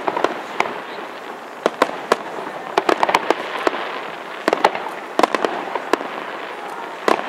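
Aerial fireworks display: sharp shell bursts and bangs in quick, irregular succession, a dozen or more, over a continuous wash of noise between them.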